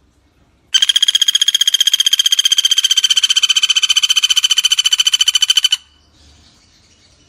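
Pelatuk bawang (a small woodpecker) giving one long trill: a fast, even rattle of sharp notes at a steady high pitch. It starts about a second in, lasts about five seconds and cuts off suddenly.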